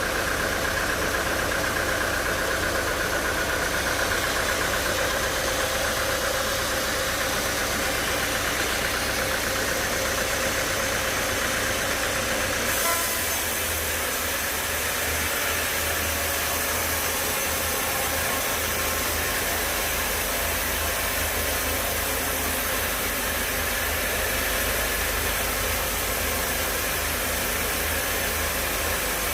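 Sawmill machinery running steadily with a constant mechanical hum and hiss. A high whine sounds over it until about 13 seconds in, then stops as the sound changes.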